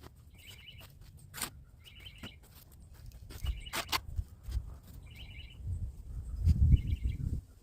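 A bird giving a short trilled chirp over and over, about every second and a half, with a couple of sharp clicks or knocks. A low rumble rises near the end.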